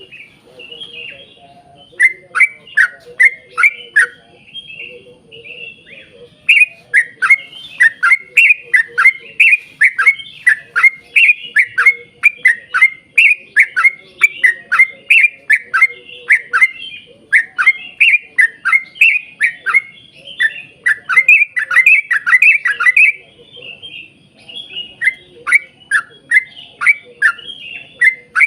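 Yellow-vented bulbul (trucukan) singing a long rapid series of sharp down-slurred notes, about two a second, in runs with short breaks, over fainter twittering.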